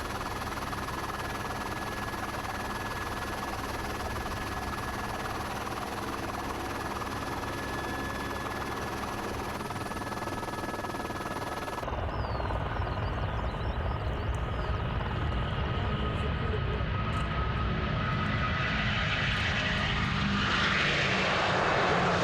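Jet airliner engine noise: a steady rush with a faint whine, changing abruptly about halfway through to a louder, deeper rumble that swells into a rising rush near the end, as of a plane passing close.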